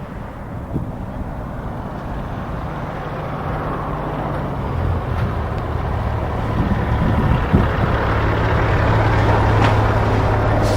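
Union Pacific Big Boy 4014's train approaching, a low steady drone and rumble growing steadily louder, with a few brief knocks.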